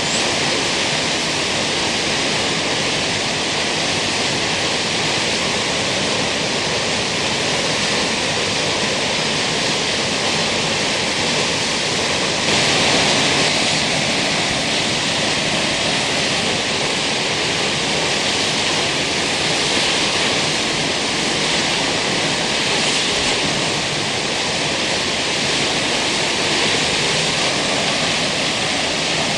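Kegon Falls, a tall plunge waterfall, pouring with a steady rush of falling water.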